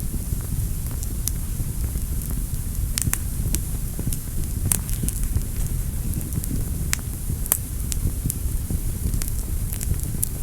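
Wood fire burning in a fireplace: a steady low rumble and hiss of the flames with irregular sharp crackles and pops, a few louder snaps among them.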